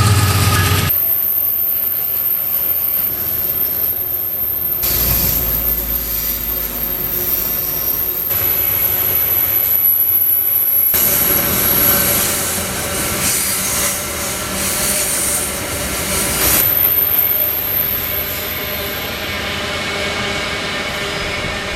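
Loaded grain hopper wagons of a freight train rolling past. Their wheels give off high, thin squeals on the rails that start and stop several times over the rolling rumble.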